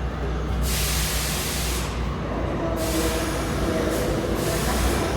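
R46 subway train running with a steady low rumble, broken by two long bursts of loud hissing, the second starting about a third of the way in and lasting to near the end.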